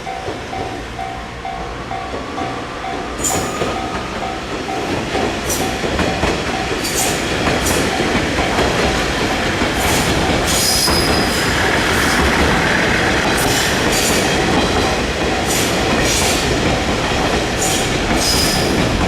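E351 series electric multiple unit running on yard track, its wheels squealing again and again over a rumble that grows steadily louder as it approaches. A level-crossing bell rings for the first few seconds, then stops.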